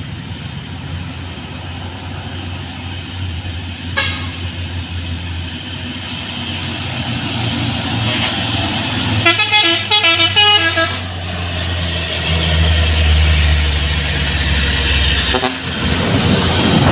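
Truck engine running under load on a hill climb, growing louder through the second half. About halfway through, a horn sounds in a quick series of toots lasting around two seconds.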